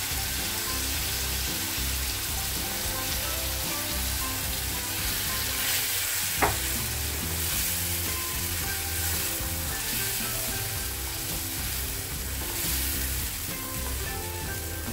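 Marinated chicken sizzling steadily in a hot nonstick frying pan as it is stirred and spread with a silicone spatula. A single sharp knock about six and a half seconds in.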